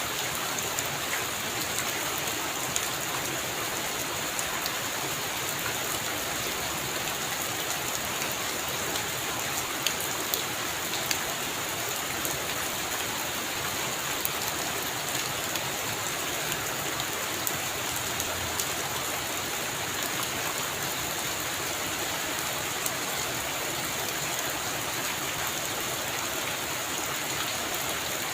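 Heavy rain falling steadily on a roof, a dense even hiss with scattered sharper drop strikes.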